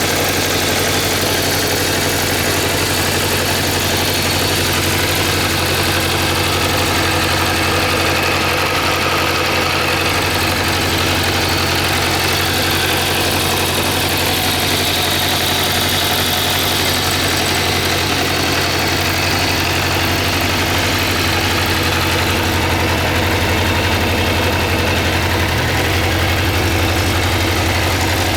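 Suzuki GSX400F's air-cooled inline-four engine idling steadily, held at an even speed without revving.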